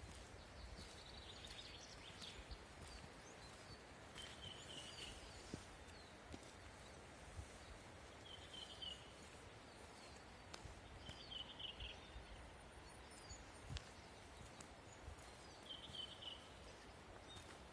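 Faint outdoor quiet with low rumble, and a bird repeating a short high chirping phrase every three to four seconds.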